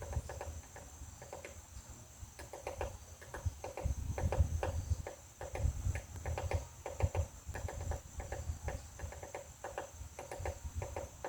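Woodpecker pecking at a butterfly house: quick runs of light taps, cluster after cluster, all the way through.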